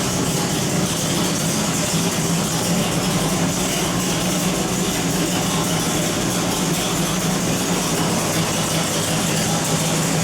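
632 cubic-inch big-block V8 marine engine running on a dyno at a steady speed, a constant loud drone with no revving up or down.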